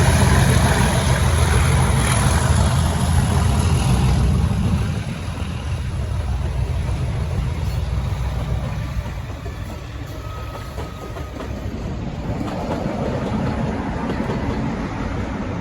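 Heritage diesel locomotive's engine running with a deep, steady drone, loudest at first and dropping back after about five seconds, then swelling slightly again near the end.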